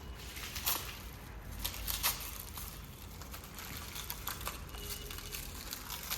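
Faint crinkling and scattered light clicks of packaging and parts being handled.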